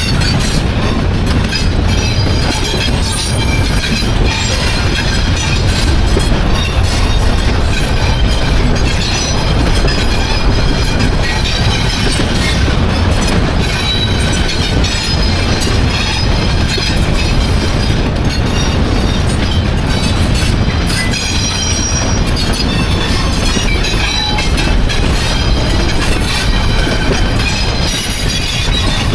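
Freight cars of a CN train rolling past with steady wheel-on-rail clatter, and short high squeals from the wheels coming and going.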